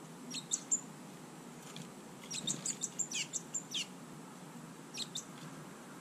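Small songbirds chirping: short, high, sharp calls in three bunches, a few near the start, a quick run of about a dozen in the middle, and two more about five seconds in.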